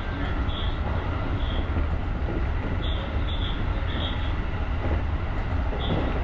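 JR electric rapid train running along the line, a steady low rumble of wheels on rail heard from the driver's cab, with short high-pitched chirps every second or so.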